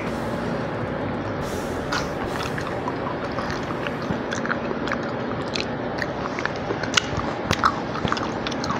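Close-miked chewing of soft fried cabbage: wet mouth clicks and smacks scattered irregularly over a steady background hiss, one sharper click about seven seconds in.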